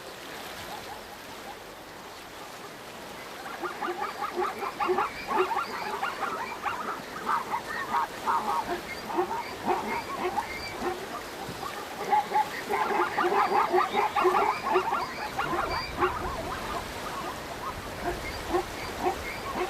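A herd of zebras calling: many short, honking barks overlapping in a noisy chorus. They start about three seconds in and keep on, the alarm cries of a nervous herd at a river crossing.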